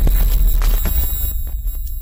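Stampede sound effect: a loud, deep rumble with scattered thuds and knocks through it, thinning out in the second half.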